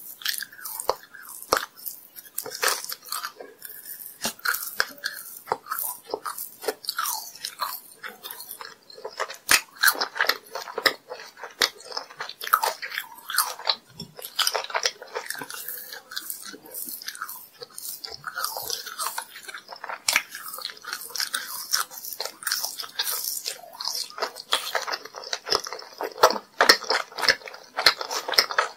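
Close-miked biting and chewing of chewy candies, with many small crisp crackles and wet mouth sounds.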